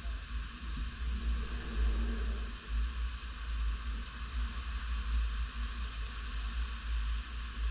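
Tropical-storm wind gusting, buffeting the microphone with an uneven low rumble over a steady hiss.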